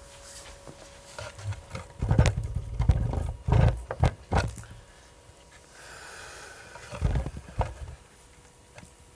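Wood campfire burning, with a cluster of loud cracks and pops and a low rumble under them from about two seconds in to about four and a half seconds, then a few more about seven seconds in.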